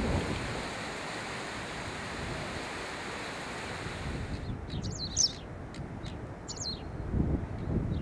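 A steady rush of wind and surf, which cuts off about halfway through. Then a small bird gives two short, high chirping calls, with wind buffeting the microphone near the end.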